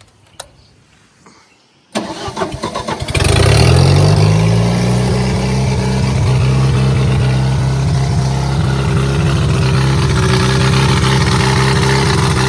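Bobcat 732 skid steer's gasoline engine cranking for about a second, catching about three seconds in, then running steadily at a fast idle. It starts once the timing problem has been sorted out, after refusing to start despite spark, fuel and good compression.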